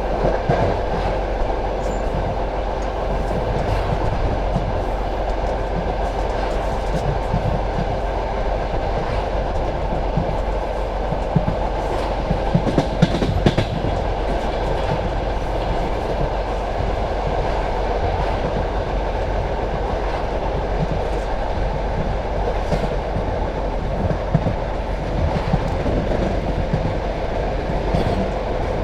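Passenger train carriage rolling along the track, heard from aboard: a steady rumble of wheels on rails with the clickety-clack of wheels over rail joints, and a cluster of sharper clacks about halfway through.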